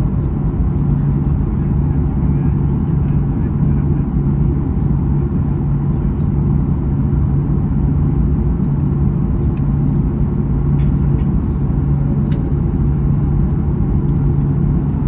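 Steady cabin noise of a Boeing 737-800 in flight: a loud, even rumble of engines and airflow with a constant low hum.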